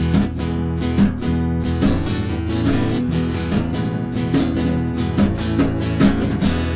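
Acoustic guitar strumming a steady rhythm in an instrumental passage, with no singing, closing on a last strum left to ring near the end.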